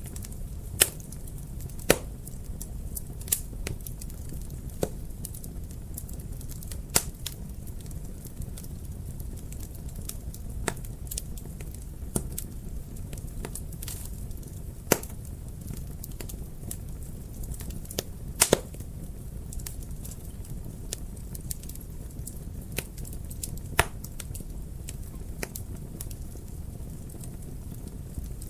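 Wood fire burning in a fireplace, crackling: irregular sharp pops and snaps, a few much louder than the rest, over a steady low rumble of the flames.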